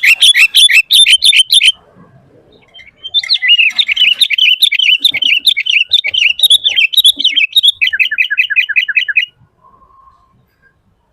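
Sooty-headed bulbul (kutilang) singing fast runs of repeated chirping notes: one run ends about two seconds in, and after a short pause a longer run finishes with a string of quick falling notes and stops about nine seconds in.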